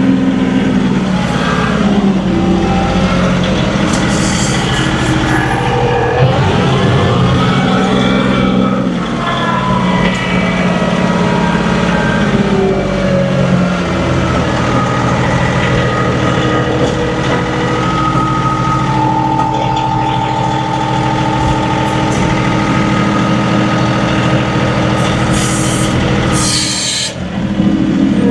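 John Deere 2038R compact tractor's diesel engine running under load, its pitch rising and falling as the engine speed changes, with a short drop in loudness near the end.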